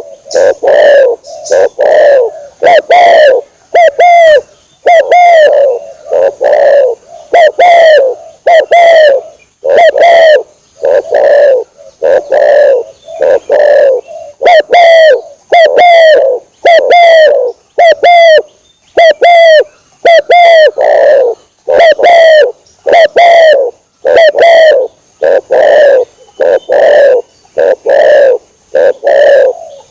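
Spotted dove (tekukur) cooing over and over, about one loud coo a second: a lure-call recording played to draw wild doves in.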